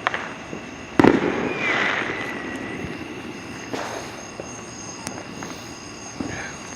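Fireworks going off: one sharp bang about a second in, the loudest, with a crackle after it, then a smaller bang near four seconds and a faint one near five.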